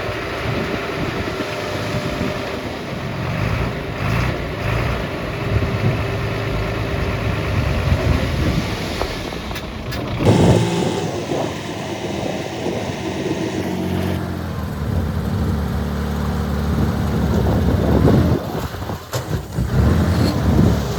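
Diesel engines of heavy earth-moving machinery running, the sound changing abruptly about halfway through and again a few seconds later.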